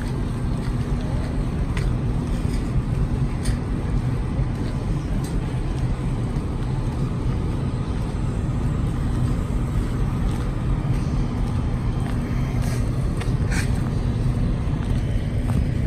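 Steady low rumble of a moving vehicle with a constant low hum, and a few light clicks about thirteen seconds in.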